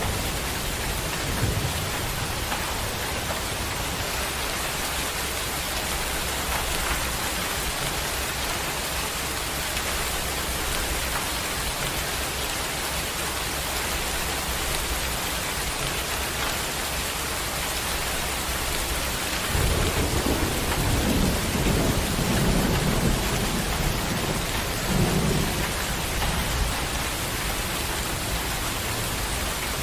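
Heavy rain pouring down steadily. Low rolls of thunder rumble in about two-thirds of the way through.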